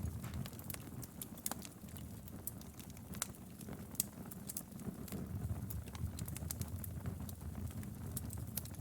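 Wood fire burning in a fireplace: a steady low rumble of the flames with irregular crackles and snaps from the burning firewood, a few sharper pops among them.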